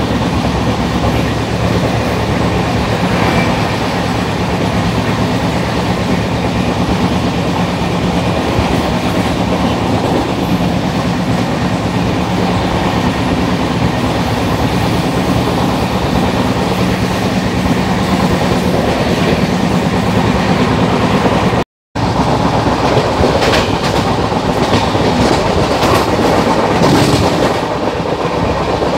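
Express passenger train running, its wheels rumbling steadily on the rails with clickety-clack from the rail joints. The sound cuts out for an instant about 22 seconds in, and a few sharper clacks follow.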